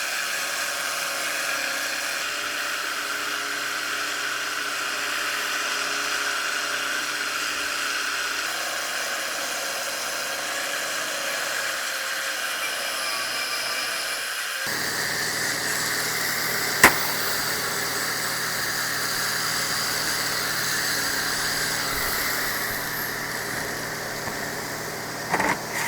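Steady whirring of a workshop machine or power tool running, with an abrupt change in its sound about 15 seconds in. A single sharp click comes a couple of seconds later, and a few knocks near the end.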